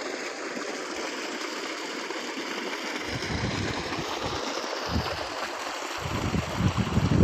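Steady rushing of a flowing stream. From about halfway in, wind gusts buffet the microphone with irregular low rumbles, heaviest near the end.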